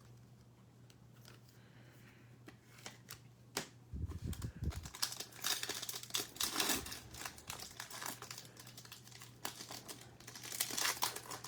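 Trading card pack wrapper being torn open and crinkled, with cards being handled. The crinkling starts about four seconds in with a low thump and builds up again near the end.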